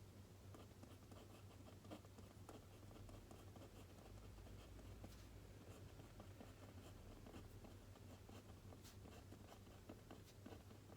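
Faint scratching of a pen or pencil writing by hand on paper, in many short quick strokes, over a steady low hum.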